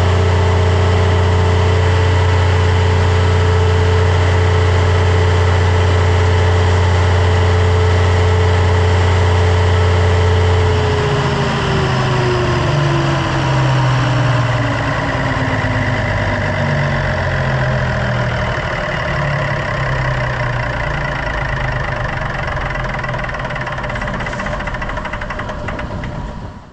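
Cummins 400 kW diesel generator running loud and steady with a deep even hum. About eleven seconds in the hum breaks up and a whining tone slides down in pitch over several seconds, while loud running noise carries on.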